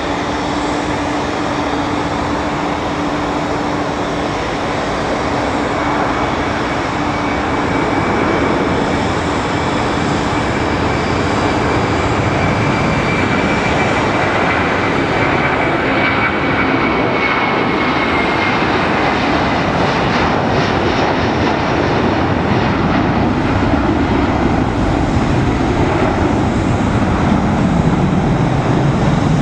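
Airbus A330-300 twin jet engines at takeoff thrust: a loud, steady jet noise that slowly grows louder, with a high whine through the first half that sinks slightly in pitch.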